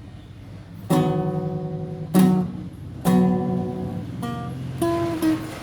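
Classical guitar playing. After about a second of faint hiss, three full chords ring out about a second apart, followed by lighter single plucked notes.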